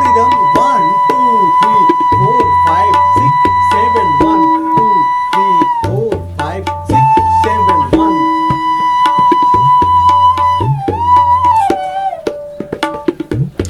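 Background music of tabla and a bamboo flute: the flute holds a long note, then moves between notes in the second half, over a steady tabla rhythm.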